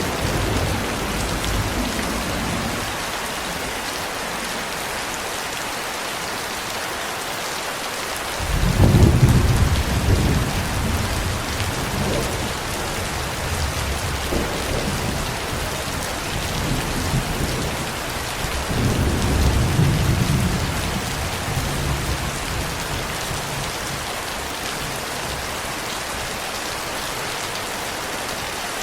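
Steady heavy rain with rolling thunder: a deep rumble swells up about a third of the way in and rolls on, with a second rumble about two-thirds of the way through.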